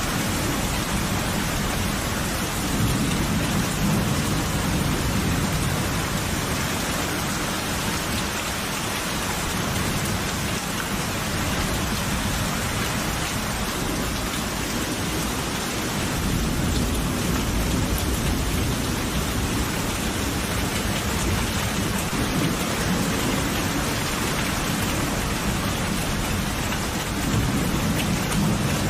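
Steady heavy rain falling, with low thunder rumbling in slow swells three times: a few seconds in, in the middle, and near the end.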